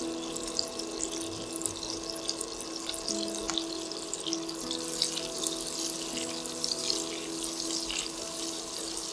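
Food sizzling in a hot skillet, a steady hiss with many small crackles, under background music with slow sustained notes.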